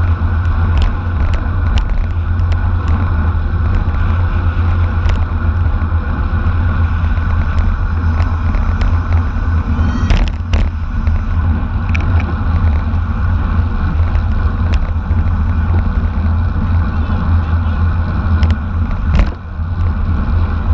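Steady wind rush buffeting the microphone of a camera on a bicycle racing at speed, with scattered sharp clicks and rattles.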